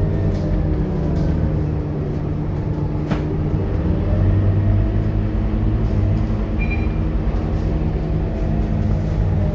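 Scania K230UB bus's five-cylinder diesel engine running under way, its note rising and falling with speed. A sharp click about three seconds in and a brief high beep near seven seconds.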